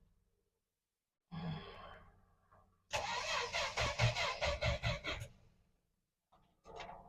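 1963 Dodge Dart's starter cranking the cold engine over without it catching. A short burst of cranking about a second in, then about two seconds of steady, rhythmic cranking that stops, followed by a few clicks near the end.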